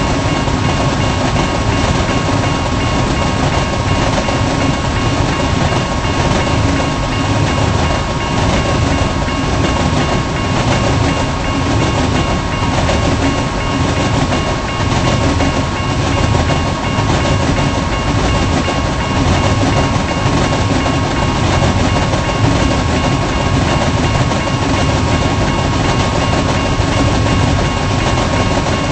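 Long double-stack intermodal freight train rolling past, a steady rumble of the cars with wheels clicking over rail joints and a thin steady high tone running over it.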